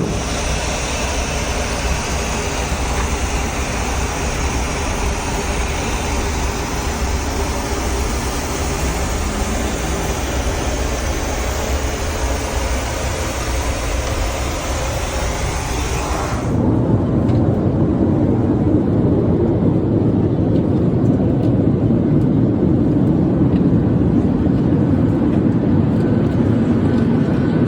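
Steady cabin noise inside a Boeing 737-9 MAX in flight, a broad rushing hiss of airflow and engines. About 16 seconds in it changes abruptly to a louder, deeper rumble.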